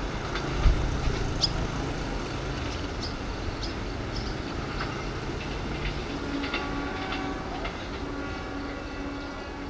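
Passenger train coaches rolling away on curving track, the wheels rumbling and clicking over the rails. There is a sharp knock about a second in, and the rumble fades as the train recedes.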